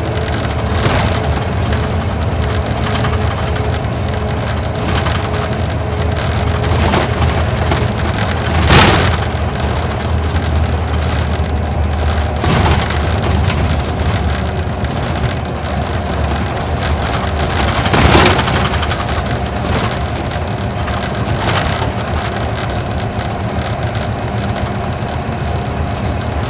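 Isuzu Gala coach's V-type diesel engine running steadily under way, heard from inside the passenger cabin, over road and tyre noise and interior rattles. Two louder knocks come about 9 and 18 seconds in.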